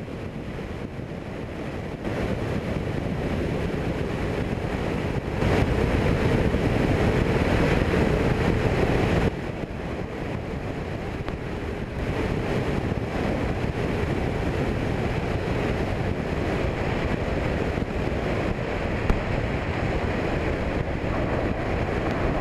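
Cabin noise of a fuel-injected Cessna 172: the drone of the engine and propeller mixed with wind rushing past, heavy and steady, with the loudness stepping abruptly up and down a few times.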